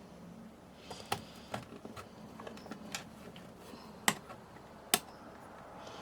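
Irregular sharp clicks and taps of small hard plastic parts being handled and worked by hand, starting about a second in, with three louder clicks standing out.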